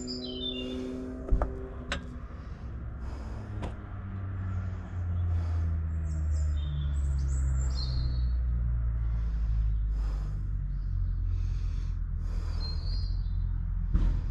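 Birds chirping while a steady low engine rumble builds about five seconds in and stays, with a few sharp knocks.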